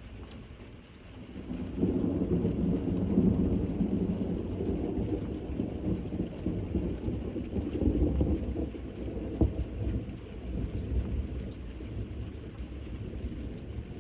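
Rolling thunder over steady rain: a low rumble swells about a second and a half in, holds for several seconds, then dies away.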